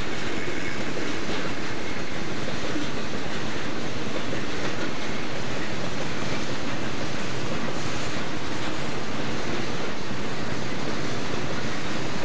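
Freight train's boxcars rolling past, a steady rumbling rail and wheel noise with no break.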